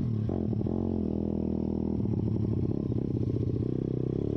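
YCF pit bike's single-cylinder four-stroke engine running under throttle while riding, its exhaust open with the spark arrestor removed; the engine pitch dips briefly about half a second in, then holds fairly steady.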